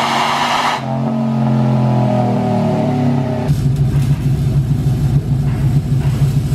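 A motor vehicle engine running steadily. About three and a half seconds in, a deeper, pulsing low sound takes over.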